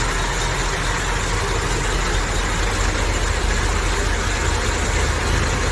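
Massey Ferguson MF 240 tractor's three-cylinder direct-injection diesel engine idling steadily, with a deep low hum.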